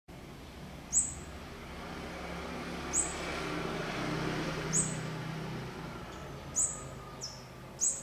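A spiderhunter giving short, sharp, high calls, each falling quickly in pitch, about every two seconds and then closer together near the end. Under them a low hum swells and fades midway.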